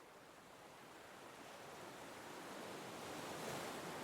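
Ocean waves: an even surf noise that slowly grows louder.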